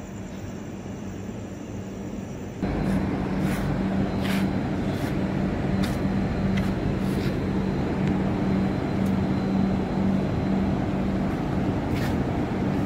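Steady machinery hum of a train standing at the station, with a strong, slightly pulsing low drone and a few light clicks; it starts abruptly a couple of seconds in after a quieter start.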